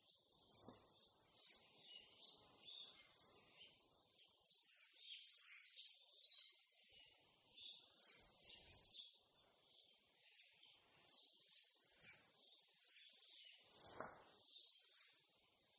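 Faint chorus of several songbirds chirping and singing without a break, with now and then a soft low thud, the strongest near the end.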